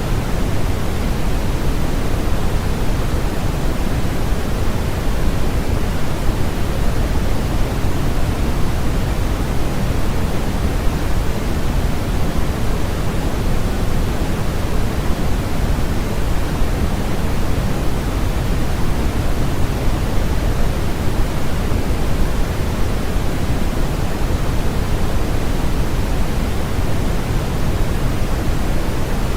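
Steady, unbroken synthetic noise for sleep masking: a smooth hiss with no changes or events, weighted toward the low end so it sounds deeper than flat white noise, closer to pink noise.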